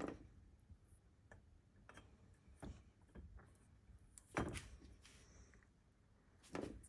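A few scattered light knocks and clicks from handling small compressor valve-plate parts and the sealant tube, the loudest about four and a half seconds in and another near the end.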